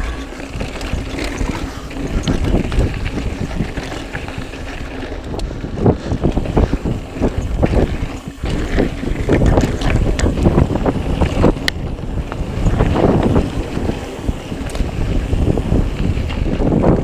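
Wind buffeting the microphone of a camera riding along on a mountain bike, with the rumble of tyres on dirt trail and irregular knocks and rattles from the bike bouncing over rough ground.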